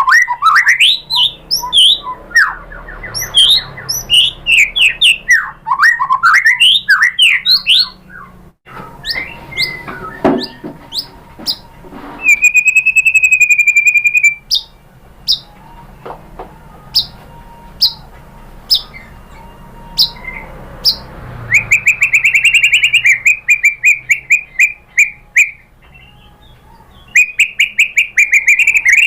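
White-rumped shama singing a varied song of quick whistled phrases, with a long steady trill about midway and fast rattling runs near the end.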